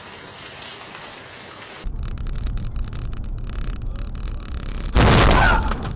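Steady rain, then a louder storm with low rumbling and crackling. About five seconds in, a sudden very loud crash lasts about a second, typical of a close thunderclap.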